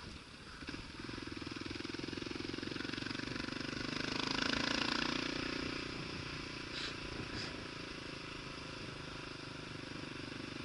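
Kawasaki KLR motorcycle's single-cylinder engine running under load while climbing. It gets louder about four seconds in, then eases back to a steady pull.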